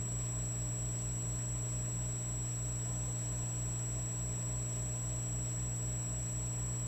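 Electric fireplace log unit humming steadily: a low electrical buzz with a thin high whine above it and a fast low flutter about five times a second.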